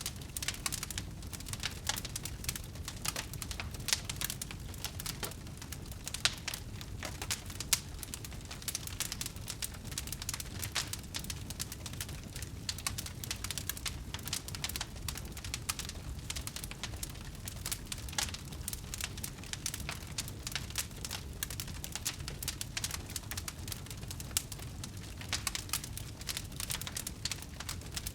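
Wood fire burning with a steady dense crackle of small pops and snaps over a low rumble, with a few louder pops.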